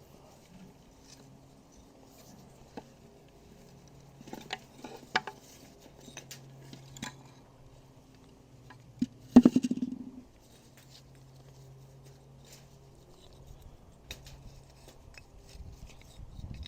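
A large plant pot being handled and tipped to free a root ball: scattered light knocks, scrapes and soil rustles, with one louder hollow knock about nine seconds in.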